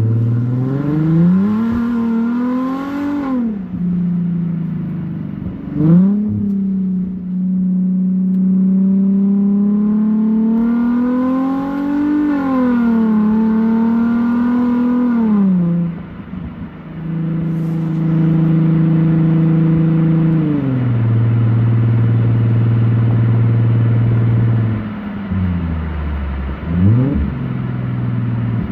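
2007 Infiniti G35's VQ35HR 3.5-litre V6 through a straight-pipe exhaust with the mufflers and resonators deleted and the stock cats kept, heard on the move. It pulls up through the automatic's gears, the pitch climbing and dropping at each shift, then holds steady at cruise. Later it settles into a lower drone as the car slows, before revving up again near the end.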